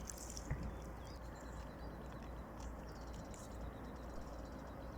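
Faint steady background hiss with a small knock about half a second in and a few faint, short, high chirps.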